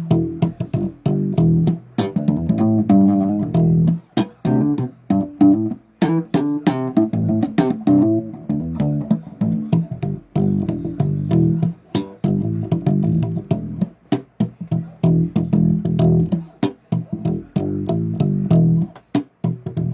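Bass guitar riffing: a steady run of low plucked notes with sharp, clicky attacks, moving briefly into higher notes twice.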